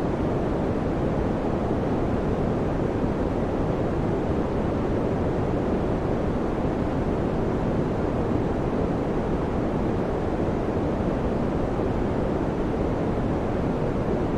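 Electric fan running steadily: a constant low whooshing noise of moving air with no changes.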